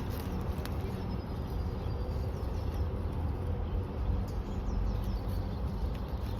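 Steady low outdoor rumble of background noise, with a few faint, short, high bird chirps around the middle.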